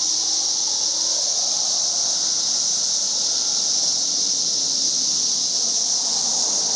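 Dense chorus of periodical cicadas singing: a steady, shrill, high-pitched drone that never lets up.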